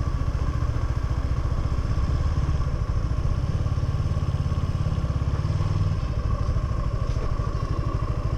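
Suzuki V-Strom 250 SX's single-cylinder engine running at low, steady revs.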